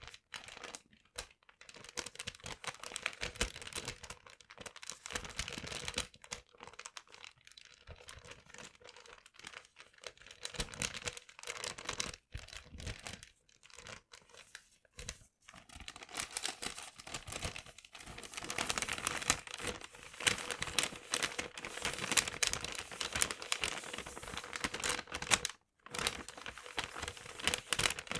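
Paper being crumpled and handled close to the microphone: a dense crackle of many small ticks with brief pauses, growing busier and louder about two-thirds of the way in. A faint steady hum runs underneath.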